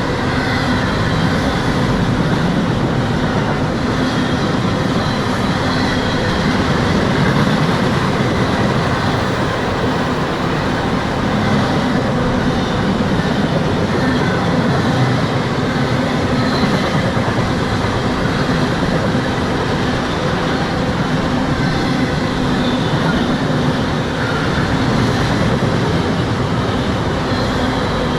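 Train passing close by: a steady, loud rumble of wheels on rail, with faint, short high-pitched squeals now and then.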